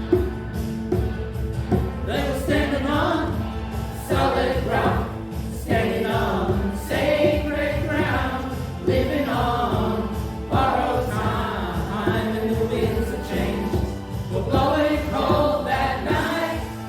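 A choir singing over instrumental accompaniment with held low notes and a steady pulse; the voices come in about two seconds in.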